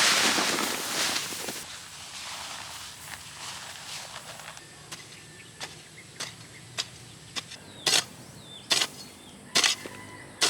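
A loud rushing noise at the start, then a regular series of sharp knocks or impacts about every 0.6 seconds, growing much louder over the last few seconds.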